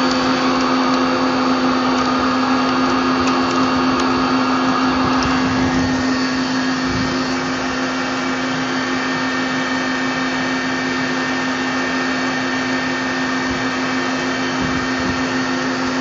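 Puma 350 CNC lathe running steadily: a constant machine hum with a strong low tone over a steady hiss. A brighter hissing layer drops away about five and a half seconds in while the hum carries on.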